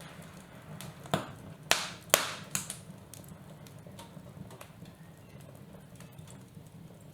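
A few sharp, irregular taps, four of them between about one and three seconds in, each with a brief ringing tail, over a steady low hum.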